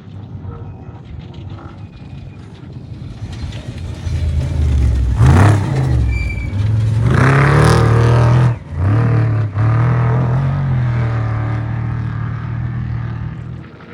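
Off-road race vehicle engine approaching and passing at speed. It grows loud about five seconds in, with revs surging, and the engine note drops out briefly twice near the middle before fading away.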